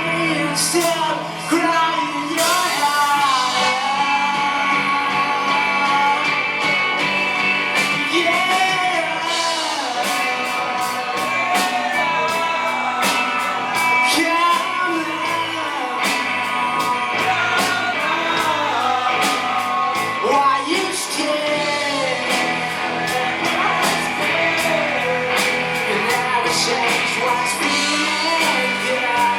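Live rock band playing a cover song with a singer, over guitars and a steady drum beat, in a large room.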